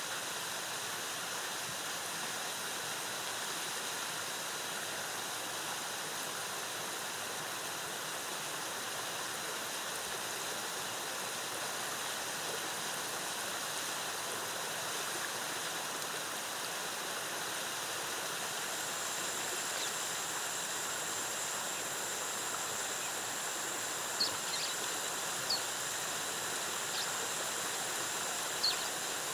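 Waterfall cascading, a steady rush of falling water. About two-thirds of the way in a thin, steady high-pitched tone joins it, and a few brief high chirps sound near the end.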